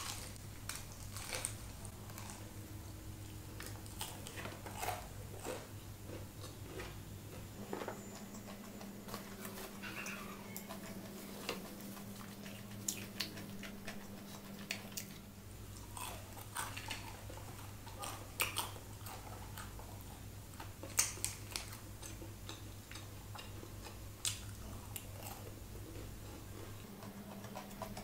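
Close-up chewing of crispy fried chicken, with irregular crunches, crackles and mouth clicks. A steady low hum runs underneath.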